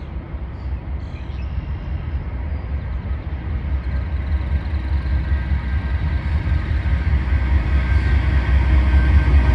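Diesel train approaching: a deep, low rumble that grows steadily louder.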